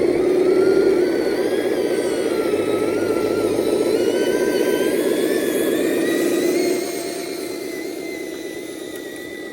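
RC dump truck's motor and gears running with a whir and a wavering whine, dropping in level about seven seconds in.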